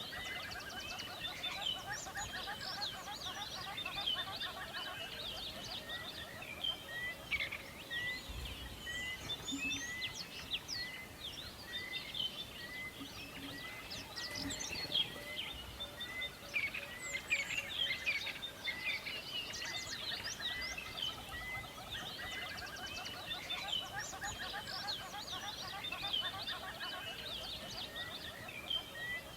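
Chorus of several songbirds, with many overlapping chirps and trills. One bird repeats a short note at an even pace, a little over once a second, falls silent for several seconds midway, then starts again.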